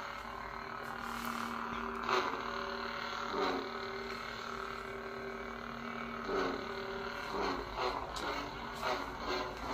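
Lightsaber sound board playing the SaberForge Crimson dark-side sound font: a steady electric hum, broken every second or two by short swing or clash effects that bend its pitch.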